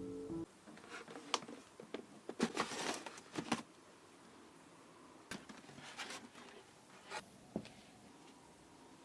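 A music ending cuts off about half a second in. It is followed by faint handling noise: scattered taps, scrapes and rustles, busiest between two and four seconds in, with a few single clicks later.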